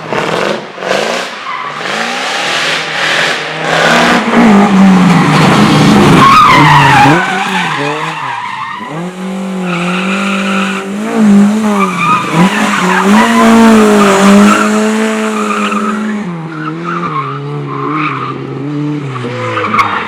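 Competition car's engine revving hard, its pitch rising and falling with throttle and gear changes, with several sharp cracks in the first few seconds. Tyres skid through the middle of the stretch while the engine holds high revs.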